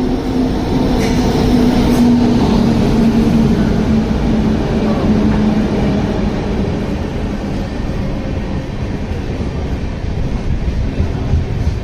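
A train running, with a loud, steady rumble and a low tone that drops slightly in pitch over the first few seconds.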